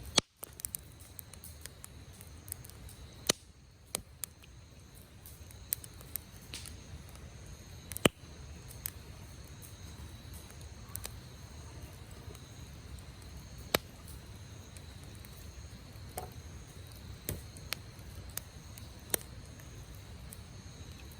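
Wood campfire crackling: irregular sharp pops and snaps of burning firewood, the loudest a few seconds apart, over a low steady rumble.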